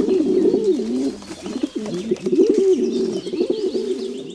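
Pigeon cooing: low, wavering coos repeated one after another.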